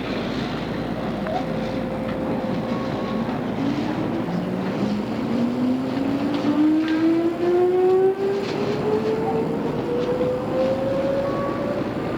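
Odakyu 2600 series electric train heard from on board, its traction motors whining and rising steadily in pitch as the train picks up speed, over the steady rumble of wheels on rail.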